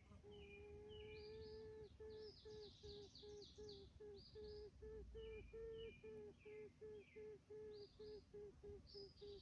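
Faint hum, steady for about two seconds and then pulsing evenly about three times a second, with small birds chirping over it.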